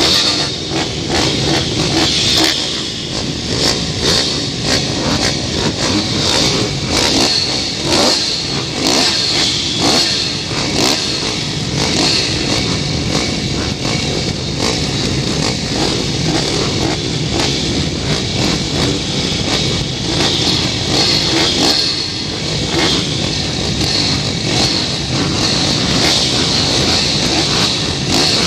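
Pit bike engines running hard and continuously, with many short clicks and knocks through the whole stretch.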